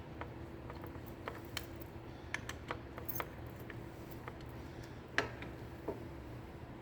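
Scattered light metallic clicks and taps from bolts and hand tools being handled at a motorcycle's rear brake master cylinder, with one sharper click about five seconds in, over a steady low hum.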